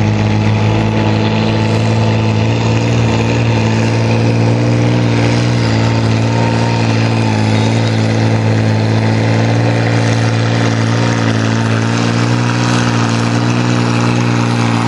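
Antique tractor engine running steadily at an even, constant speed.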